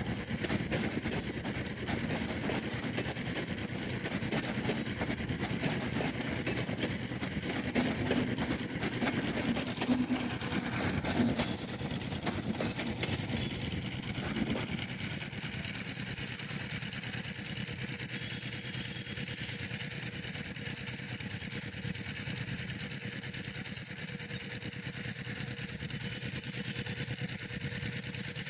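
Passenger coaches of a train rolling past with wheel noise on the rails, ending when the rear power car goes by about halfway through. After that comes the quieter, steady sound of auto-rickshaw and motorcycle engines idling.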